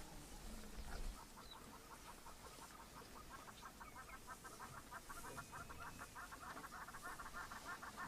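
A bird calling: a long run of rapid, short clucking notes, several a second, that starts about a second and a half in and grows stronger.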